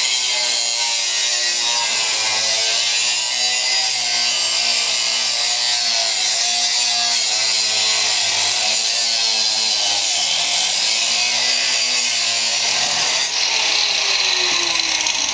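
Grinder working on an old motor mount: a steady, loud, high grinding whose pitch wavers as the wheel is pressed into the metal, with one tone sliding down in pitch near the end.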